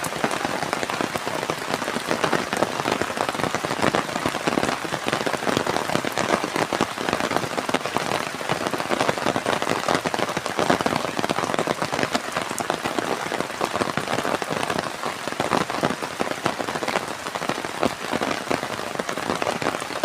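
Steady rain falling, a dense patter of countless drops striking a hard surface.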